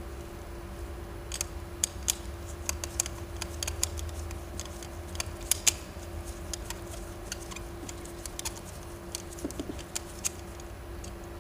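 Irregular light clicks and taps of small metal carburetor parts and tools being handled as a Honda GX carburetor is worked on, over a steady hum.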